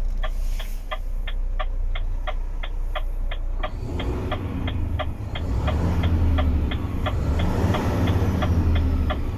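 Renault Kerax 460 truck's diesel engine running, raised to higher revs about four seconds in and held there. Through it a warning beeper sounds in rapid, even pips about four times a second.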